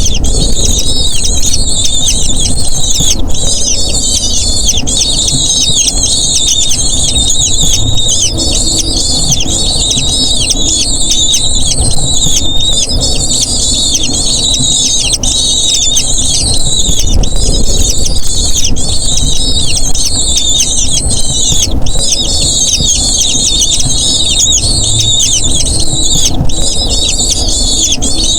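Eagle chicks squealing continuously in fast, high-pitched, falling notes, the begging calls of nestlings being fed.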